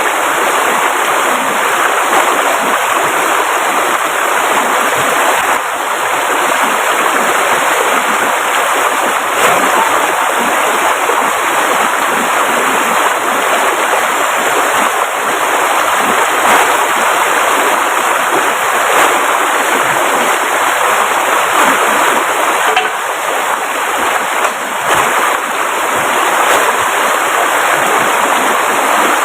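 Steady, loud rushing of water with no let-up, with faint scattered ticks through it.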